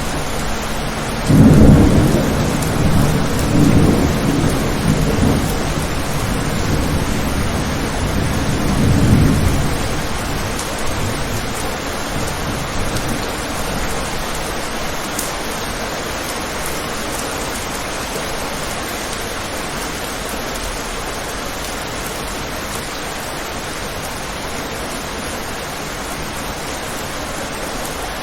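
Steady rain falling, with a clap of thunder about a second in that rumbles on in several low swells for roughly eight seconds before fading back into the rain.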